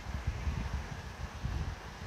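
Wind buffeting the microphone: an uneven low rumble in gusts over a faint background hiss.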